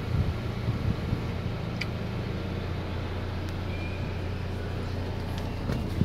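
Steady low hum of a 2005 Honda Odyssey's 2.4-litre VTEC engine idling with the air conditioning running, heard from inside the cabin. A light click about two seconds in.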